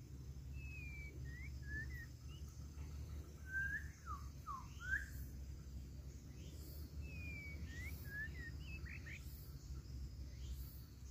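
A songbird singing two phrases of clear whistled notes that swoop up and down, about two seconds apart, over a faint low hum.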